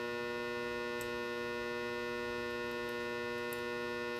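Steady electrical mains hum with a stack of overtones, unchanging in level, with a few faint small clicks.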